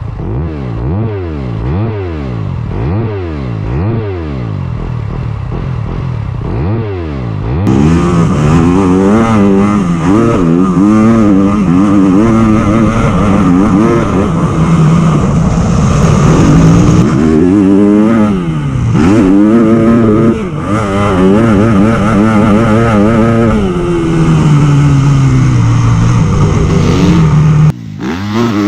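Yamaha YZ250F motocross bike's single-cylinder four-stroke engine through an Akrapovič exhaust, revved up and down again and again. About eight seconds in it gets much louder as the bike is ridden, engine speed rising and falling with the throttle.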